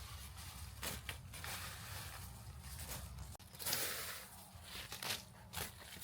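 Rustling and crunching handling noises in short swells, with a few sharp clicks; the loudest swell comes a little past halfway.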